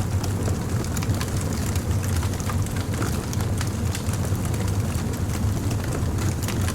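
A fire crackling: many quick irregular pops and snaps over a steady low rumble.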